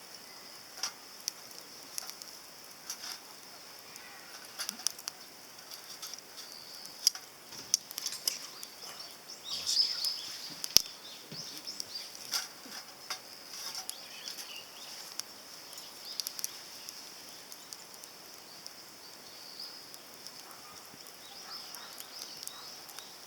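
Wood fire in a compact titanium camp grill crackling, with irregular pops and snaps, the loudest cluster about ten seconds in, over a steady high-pitched hiss.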